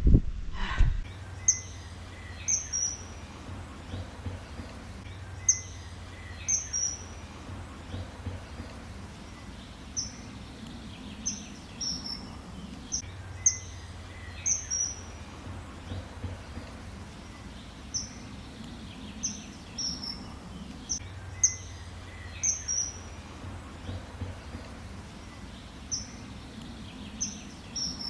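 Bird chirping: short, high, falling chirps, singly or two or three close together, at irregular intervals of a second or two over a steady outdoor hiss.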